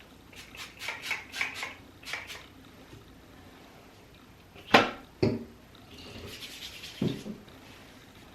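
Small hard objects being handled in a small room: a quick run of light taps and clicks, then two loud knocks about half a second apart near the middle, a short rustling hiss and a duller thump.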